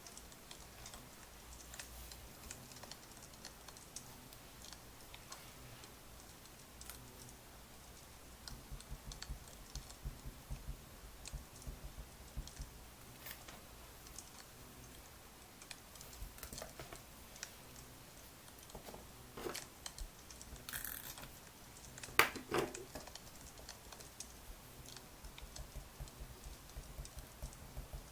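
Wood fire crackling with scattered small pops. A louder single knock comes about three quarters of the way through.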